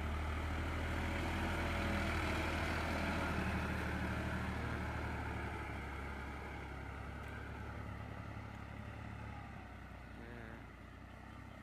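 Tractor engine running steadily with a low, even hum, gradually getting quieter.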